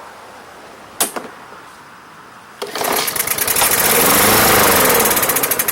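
Briggs & Stratton 140cc engine on an MTD push mower firing on starting fluid. It runs up briefly, its pitch rising and then falling, and sputters down into separate firing pulses without keeping running. This points to a fuel-delivery fault in its plastic carburetor.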